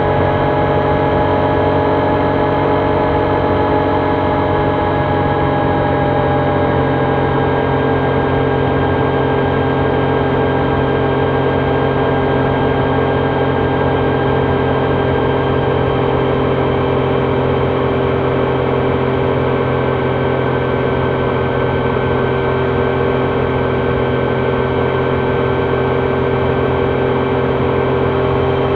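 Triumph Trident 660's inline three-cylinder engine running at a near-steady cruise, its pitch easing down slightly about six seconds in, with wind and road noise underneath.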